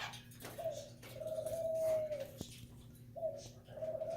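A bird's low hooting calls, each a steady note held about a second that bends down at its end: one a second in, a short one past the three-second mark, and another starting near the end. A single sharp click comes midway.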